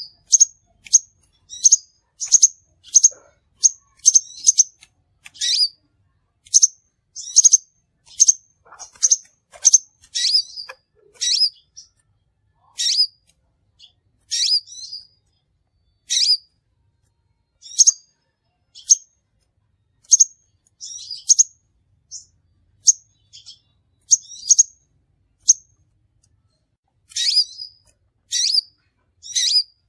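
Crimson sunbird calling, a series of short, sharp, high chirps about one or two a second that thin out midway and come in closer pairs near the end. This is a lure-call recording used to attract the bird.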